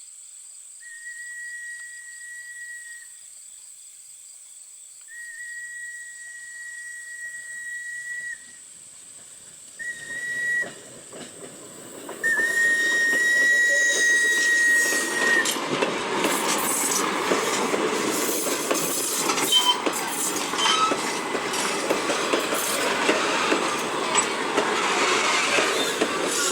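Steam locomotive whistle on an H.K. Porter 0-6-0T tank engine sounding long, long, short, long: the grade-crossing signal. Crickets chirp steadily behind it. During the last blast the train comes up and passes close by, much louder, with clattering wheels and rail joints.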